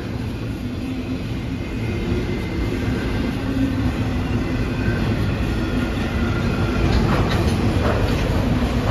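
Freight train of enclosed autorack cars rolling past: a steady rumble and clatter of steel wheels on rail with faint squealing tones, growing louder, and a few sharper rattles near the end.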